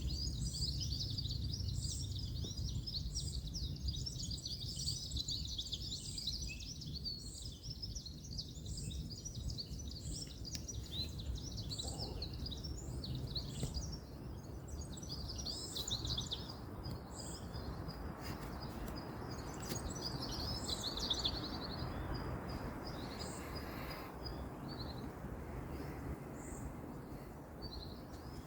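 Many small birds chirping and twittering, with one high note repeated about once a second, over a steady low rumble of distant road traffic.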